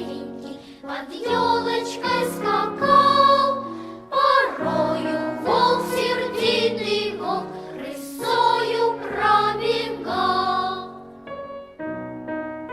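A choir singing with instrumental accompaniment; the voices stop about eleven seconds in, leaving a piano playing on its own.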